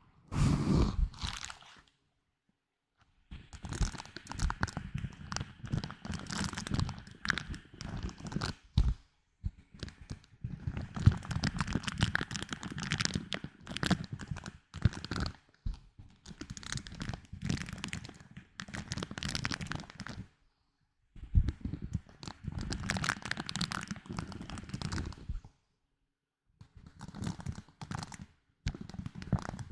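Close-miked ASMR trigger sounds of an object being handled, in bursts of a few seconds full of small clicks and crackles, with brief silent pauses between them.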